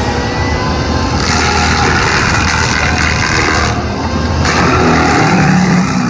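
SANY SY215CLC excavator's Cummins QSB6.7 diesel running under load while its Indeco IMH 15 mulching head spins. A louder rushing noise comes in about a second in, breaks off briefly near four seconds and returns.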